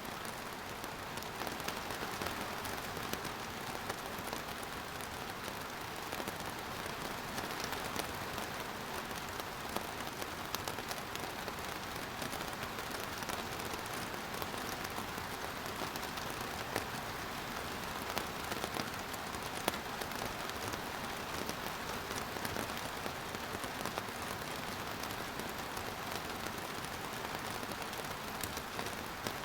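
Steady rain falling on surfaces: a constant hiss with many individual drops ticking and pattering throughout.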